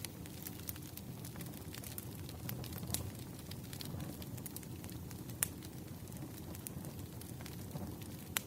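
Firewood burning: a steady low rush with frequent sharp crackles and pops, one louder pop about five seconds in.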